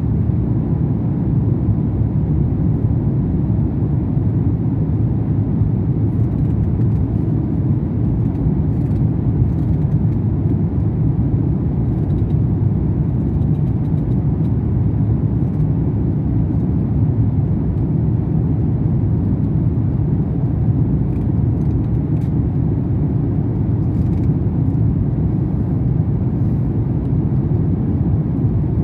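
Jet airliner taking off: a steady low rumble of engines and rushing air that holds even throughout.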